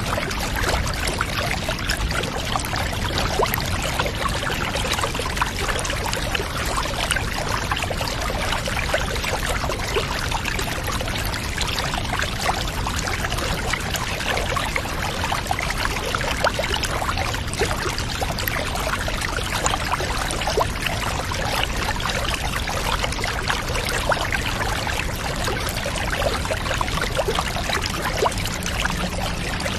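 Water pouring in a steady, unbroken stream.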